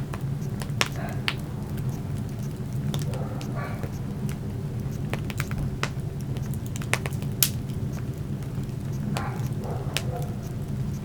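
Wood fire burning in a fireplace, crackling with sharp irregular pops, the loudest about a second in and again past the middle, over a steady low rumble.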